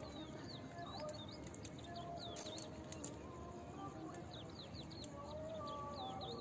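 Small birds chirping: quick runs of short, high chirps that come and go, with a cluster of several a little past the middle.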